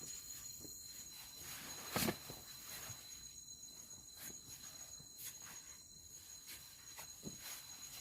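Steady high-pitched insect trilling in the forest, with scattered faint clicks and one sharp knock about two seconds in.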